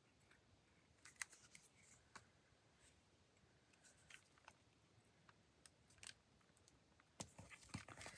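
Faint paper handling at a craft table: scattered small clicks and rustles of paper pieces being picked up and moved, growing busier near the end.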